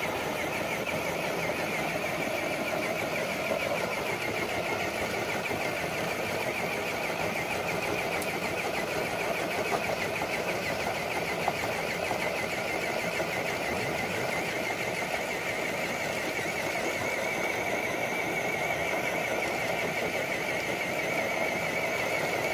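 Electric motor and gear drive of an RC crawler truck whining steadily under load as it drags a weighted sled.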